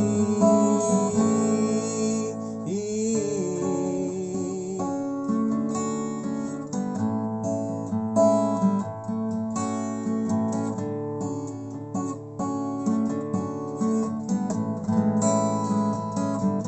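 Instrumental break in a song: acoustic guitar strumming and picking chords, with a held, wavering sung note trailing off at the start.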